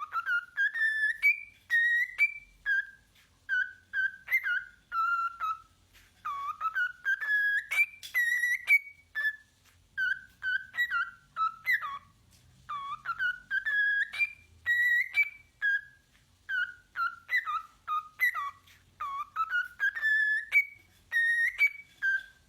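Pet bird whistling a tune: a long string of short, clear whistled notes that glide up and down in phrases, with brief pauses between them.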